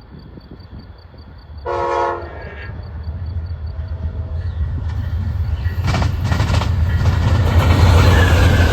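An Amtrak passenger train approaching at speed. About two seconds in it gives one short horn blast, then its rumble grows steadily louder, with wheel clatter over the rails near the end. Crickets chirp in a steady pulse until the horn.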